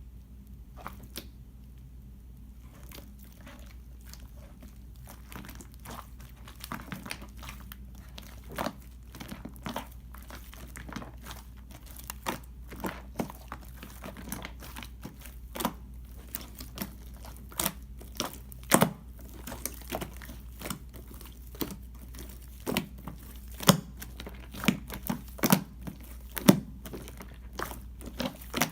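Clear slime being squished and stretched by hand while shaving foam is worked in, giving irregular sticky clicks and pops. They are sparse at first and grow denser and louder as the kneading goes on, over a steady low hum.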